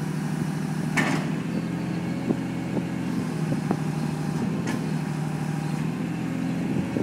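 Skip loader truck's diesel engine running steadily at idle. There is a short hiss about a second in, a fainter one later, and a few light clanks as the skip is settled on the truck.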